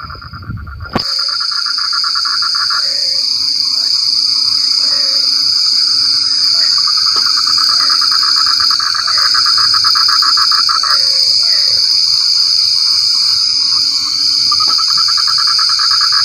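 A chorus of frogs calling: long pulsed trills that come in bouts of a few seconds, with shorter croaks scattered between them, over a steady high-pitched drone. A low rumble in the first second cuts off abruptly.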